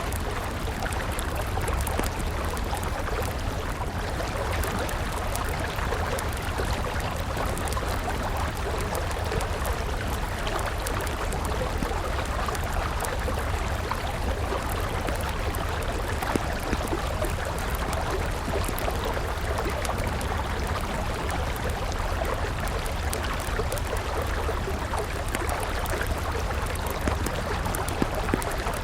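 River water rushing steadily, with a wood campfire crackling in small, scattered snaps over it.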